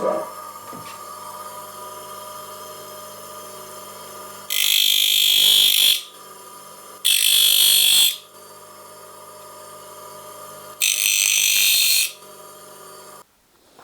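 A steady electronic buzzing tone with several pitches held together, broken three times by loud hissing bursts about a second long; it starts suddenly and cuts off near the end.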